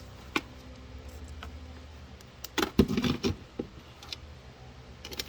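Plastic spin basket of a foldable portable washing machine being handled and seated in its grooves in the tub: a few light knocks and clicks, with a clattery cluster about two and a half to three seconds in.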